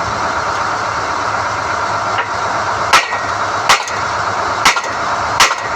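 SDH-1600 core drilling rig running steadily during NQ drill-rod tripping, with four sharp knocks in the second half, spaced about a second apart.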